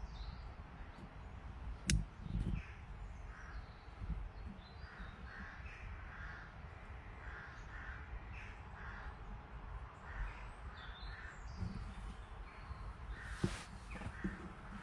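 A bird calling over and over in short notes, in runs, over a low outdoor rumble. A single sharp click about two seconds in is the loudest sound, with a fainter one near the end.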